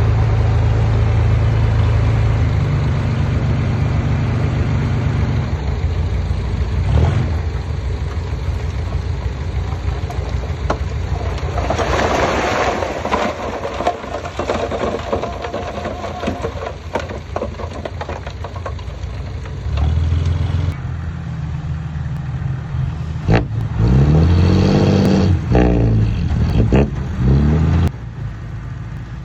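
Diesel engines of heavy earthmoving machinery running under load, with a few sharp knocks. Near the end an engine revs up and down several times, the loudest part.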